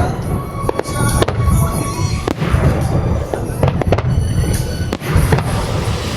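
Fireworks bursting in rapid succession, several sharp bangs a second over a continuous rumbling boom, with music playing along.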